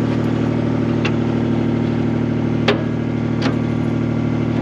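Skid steer engine running steadily, with three short sharp clicks or taps over it.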